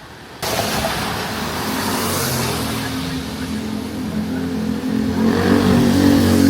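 A loud wash of noise starts suddenly about half a second in, and from about the middle a vehicle's engine runs close by, its note growing louder toward the end.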